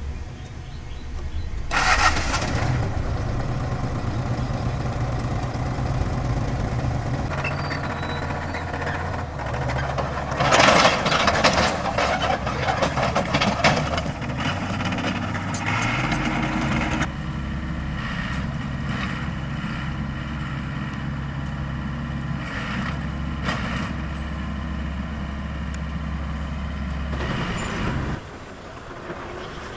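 Heavy diesel earthmoving machinery running, a dump truck or bulldozer, with a steady low engine hum that shifts abruptly several times. There is a louder, rough stretch of noise about a third of the way in.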